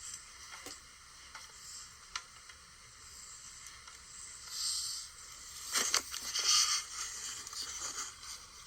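Rustling and scraping over a steady hiss, with a few faint clicks early on and louder rustling about five to seven seconds in.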